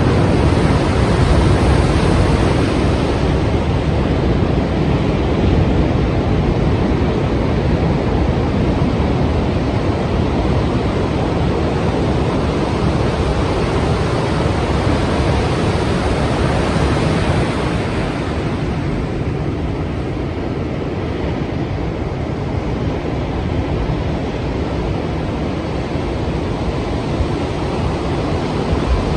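Strong sea waves and surf making a steady, dense roar, with wind. The sound eases a little about two-thirds of the way through, then builds again near the end as more surf comes in.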